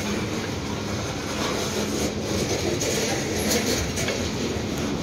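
Coal hopper cars of a freight train rolling past at close range: a steady rumble of steel wheels on the rails with a few faint clicks.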